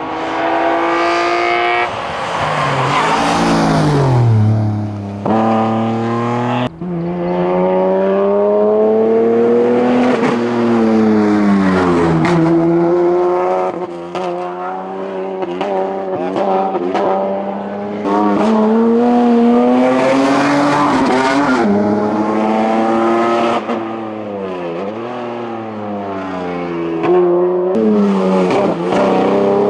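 BMW hillclimb race cars at full throttle, engine pitch climbing and dropping again and again as the drivers shift through the gears. About a fifth of the way in there is an abrupt break, after which a second car, a BMW 320, is heard running the same way; the first car is a BMW 323i with its straight-six.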